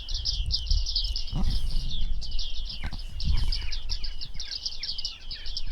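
A flock of bearded reedlings calling: a dense, continuous stream of many short high chirps, overlapping, with a low rumble underneath.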